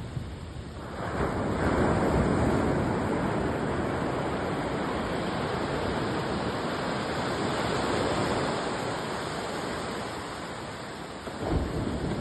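Ocean surf on a beach. One wave breaks and surges about a second in, then its wash slowly fades, and another wave breaks near the end.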